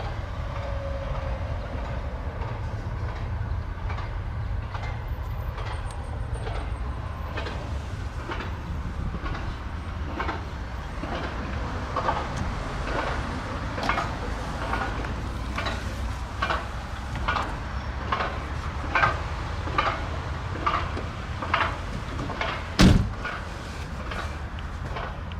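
Manual passenger seat adjusters in a 2006 Mazda 6 being worked: a run of clicks and knocks about one a second, ending in one loud thump, over a steady low rumble.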